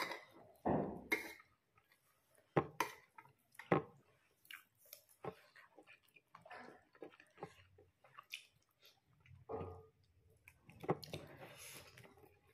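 Close-up chewing and mouth sounds of someone eating rice and chicken curry, with scattered wet smacks and a few sharp clicks. There are also soft rustles of fingers mixing rice on the plate.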